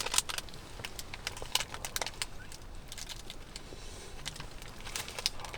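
Irregular crackling and rustling of a plastic Choco Pie wrapper being handled and torn open, with scattered small clicks.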